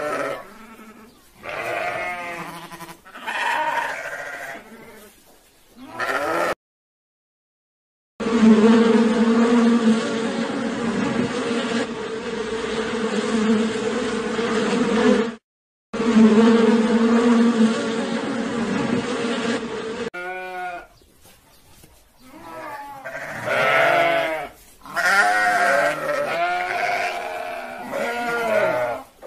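Goats bleating in a series of short wavering calls. After a brief silence there is about twelve seconds of dense, steady sound, with a short break partway through, and then the separate bleats return.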